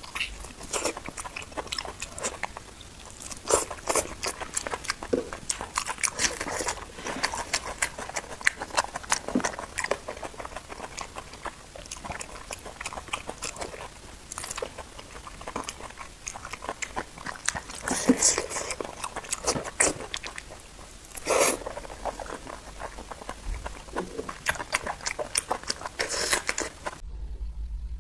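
Close-miked biting and chewing of soft boiled meat: wet mouth clicks and smacks that come in dense runs, loudest about two-thirds of the way through. Near the end the sound cuts off abruptly.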